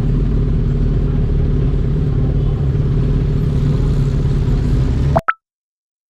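Sport motorcycle engine running steadily at highway speed, then cut off abruptly about five seconds in, followed by two short electronic blips about a second apart.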